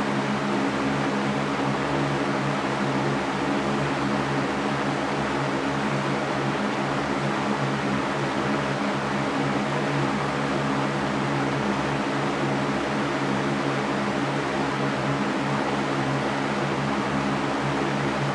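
Electric fan running steadily: an even rush of air with a steady low motor hum.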